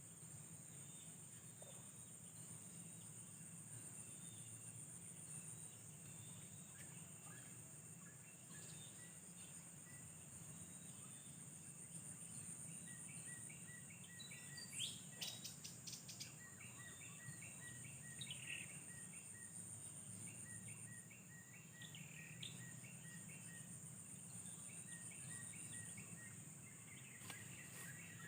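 Outdoor ambience: a steady high-pitched insect trill, with a bird calling in quick runs of short repeated notes from about halfway through, including a few brief sharp calls.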